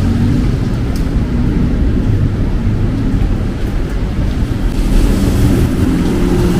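Street traffic: a motor vehicle's engine running close by, a steady low sound with a faint hum in it.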